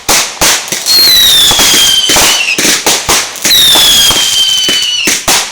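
Fireworks going off loudly in a rapid run of bangs. Two long whistles, each starting high and sliding slowly lower, come about a second in and again past halfway.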